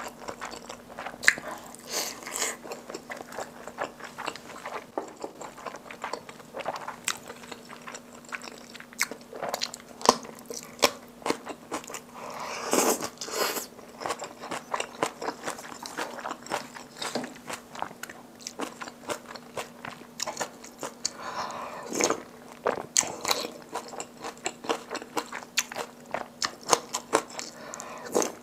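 Close-miked chewing and wet mouth sounds of someone eating slices of Spam, rice and kimchi stew, with many small clicks and smacks. There are a few louder, longer mouthful sounds about halfway through and again a little later.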